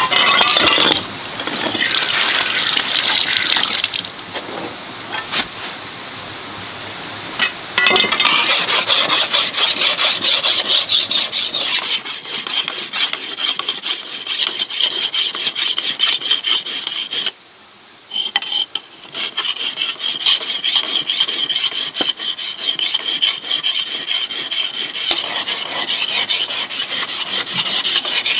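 Continuous rasping, scraping sound, like a tool being worked against wood, broken by a short pause about two-thirds of the way through.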